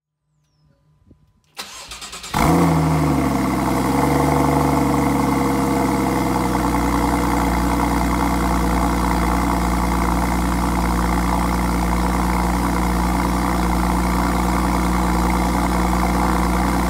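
Porsche 981 Cayman flat-six with a SOUL Performance valved exhaust starting up. The starter cranks briefly, the engine catches about two seconds in with a short rev flare, then settles into a steady idle.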